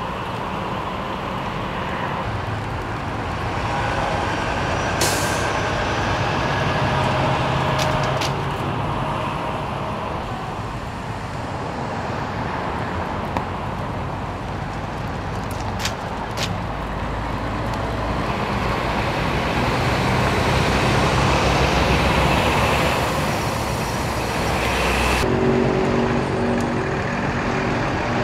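Heavy vehicle engines running steadily amid road noise, with a short burst of air hiss about five seconds in and a few sharp clicks. Near the end the sound changes abruptly to a different engine hum.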